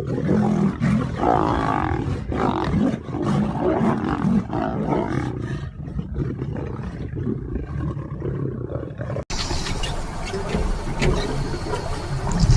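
A large animal vocalising loudly, with a deep, rough, roaring quality. About nine seconds in, it cuts off abruptly to a different recording.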